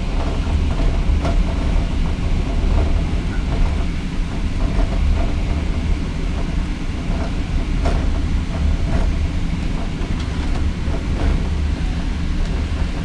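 Indian Pacific passenger train running along the track, heard from inside the carriage: a steady low rumble with scattered light clicks.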